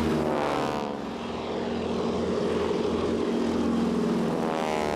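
North American Harvard / T-6 Texan trainers flying past, their nine-cylinder radial engines and propellers running loudly. The sound sweeps in pitch as an aircraft goes by, once just after the start and again near the end.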